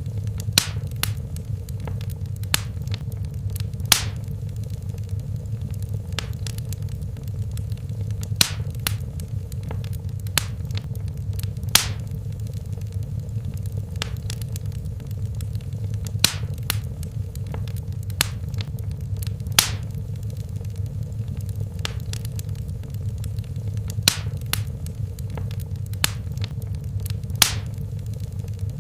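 Fireplace fire crackling: sharp, irregular pops and snaps every second or two over a steady low rumble of the flames.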